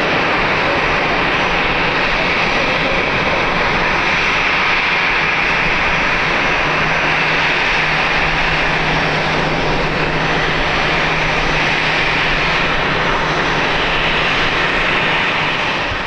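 Landing airliner's engines, a steady loud roar with a low hum that comes in about halfway, cutting off suddenly at the end.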